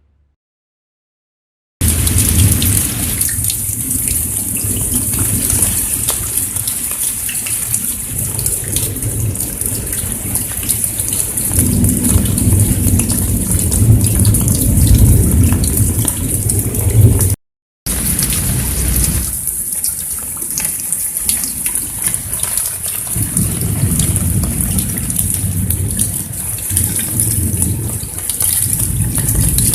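Heavy rain pouring steadily, with a deep rumble underneath and a bright hiss on top. It starts about two seconds in and cuts out for a moment just past halfway.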